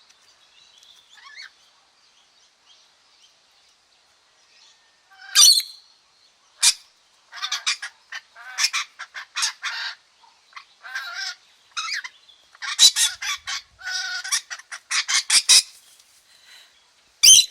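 Pied rainbow lorikeets calling while they play-fight. A few faint chirps give way, about five seconds in, to runs of loud, rapid calls in quick clusters. This is normal play, not real fighting.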